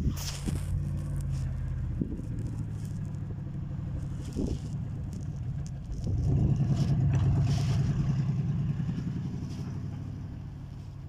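An engine running steadily with a low, pulsing hum that swells about six seconds in and then gradually fades.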